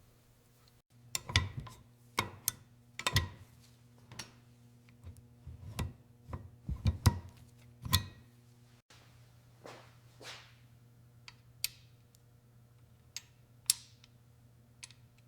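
Irregular knocks and clinks of hand tools on metal, several with a short ring, thickest in the first half and thinning to a few light ticks later, over a steady low hum.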